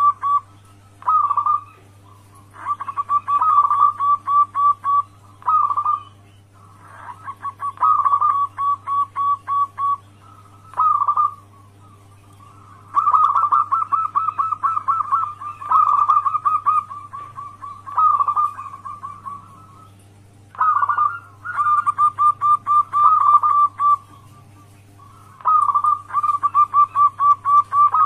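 Local zebra doves (perkutut) cooing as a lure call: about ten phrases of quick staccato notes, each a second or two long with short pauses between, over a steady low hum.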